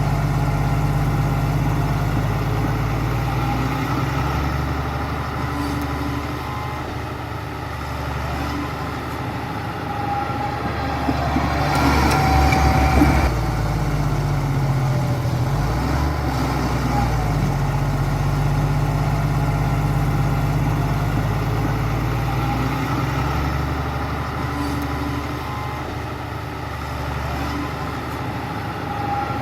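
Diesel engine of heavy earthmoving machinery running, its pitch shifting up and down several times. It is loudest about twelve seconds in.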